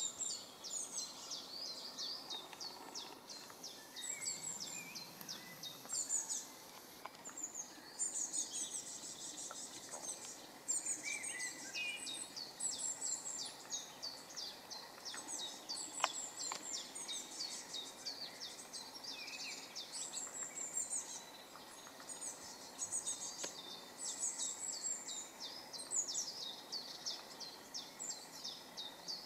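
Small birds singing: quick high chirping phrases repeated every second or two, with a few lower whistled notes and one sharp click about halfway through.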